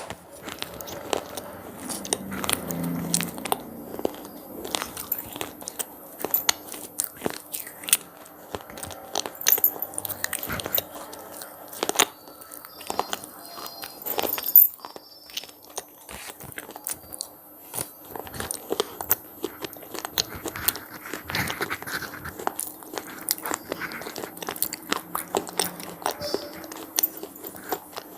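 Close-up crunching and chewing of crispy puffed snacks (cheese pizza flavoured crunches), with many sharp crackling bites throughout and a faint steady hum underneath.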